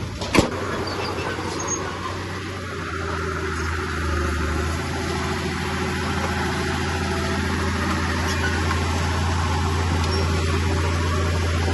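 Heavy earthmoving machine's diesel engine running steadily with a low drone, with one sharp knock just after the start.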